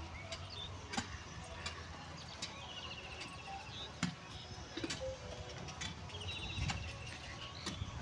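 A bird calling a quick trilled series of rapid notes, three times. Scattered light clicks sound under it.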